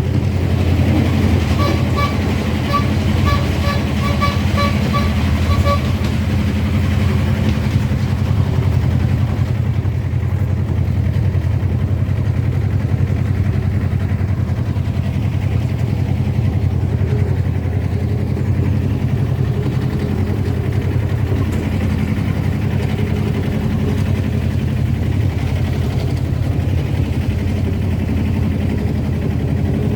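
Diesel engine of a miniature railway locomotive running steadily, a low drone heard from the train. From about a second in to about six seconds in, a row of short, evenly spaced high beeps, about two a second, sounds over it.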